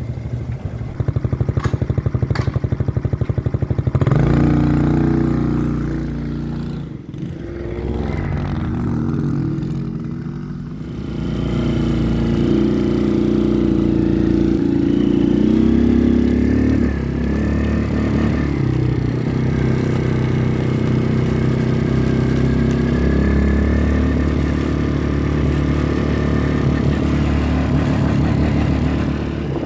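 CFmoto CForce 110 youth quad's 110cc engine running, idling with a few clicks at first. About four seconds in it revs up as the quad moves off, eases off for a few seconds, then runs under throttle with its pitch rising and falling.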